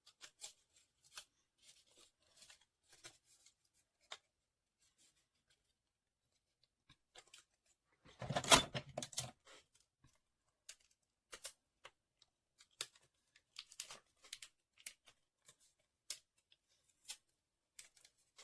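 Paper being handled and bent into a curve: soft scattered crinkles and ticks, with a louder rustle lasting about a second and a half, about eight seconds in.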